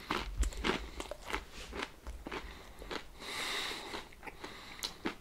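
Close-up chewing of a small hard lye pretzel: irregular crisp crunches one after another, with a brief hiss about three seconds in.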